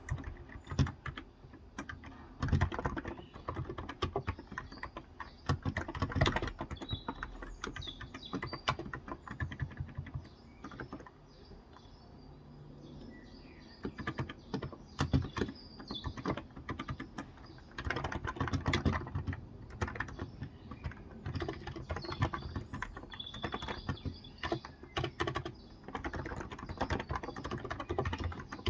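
Typing on a Cox Endeavor electro-capacitive (topre-style) keyboard with 35g switches, a steady run of key presses that thins out for a few seconds around the middle. Birds chirp faintly in the background.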